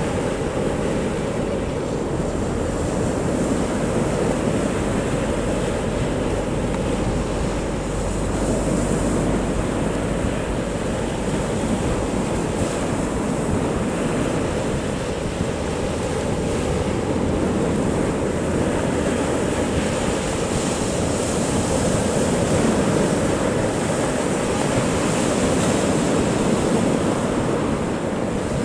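Big sea waves breaking on a beach: a steady wash of surf that surges now and then, with wind rumbling on the microphone.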